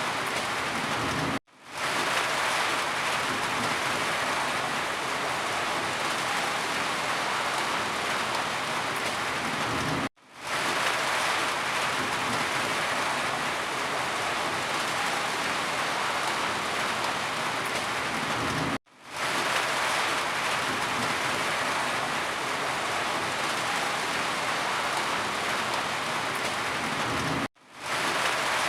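Steady rain falling, an even hiss with no thunder claps. The sound cuts out to silence for a split second about every nine seconds, three times.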